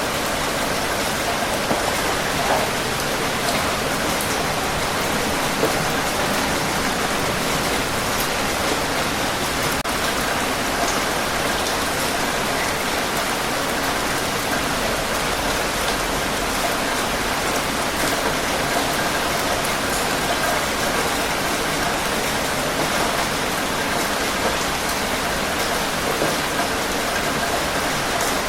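Steady rain falling on a surface, an even hiss with scattered individual drops pattering.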